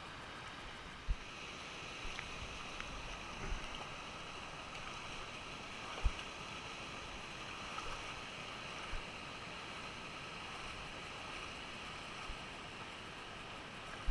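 Steady rush of falling water from a waterfall, with a few brief low thumps, the loudest about a second in and again about six seconds in.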